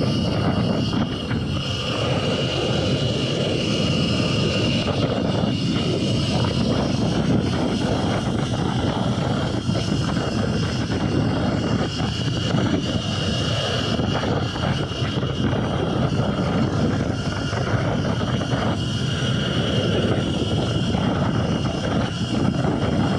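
Electric dirt bike ride: steady wind rush over the microphone, with a thin, steady high whine from the electric motor and drivetrain at cruising speed.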